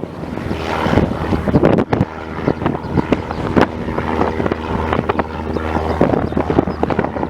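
Cessna 172's piston engine running steadily with a constant low drone, its sound buffeted by wind on the microphone.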